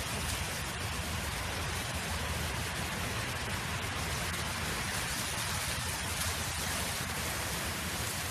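Steady wind noise: an even rushing hiss with a low, fluttering rumble underneath.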